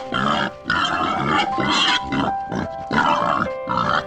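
Pig grunting in a run of short, rough calls, about one every half second, over background music with held notes.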